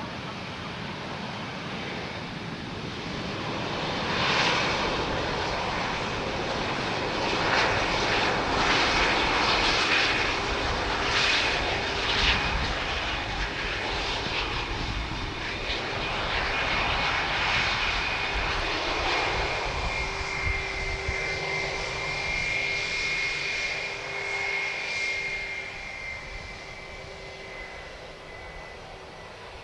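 IAE V2500 jet engines of a Wizz Air Airbus A320 arriving: the engine noise swells and peaks, then settles into a steady whine that slowly fades and drops a little in pitch near the end.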